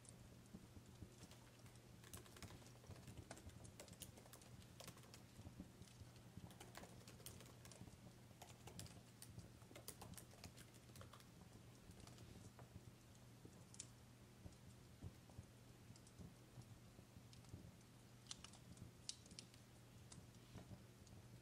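Faint, irregular crackling and popping of a wood fire, over a steady low hum.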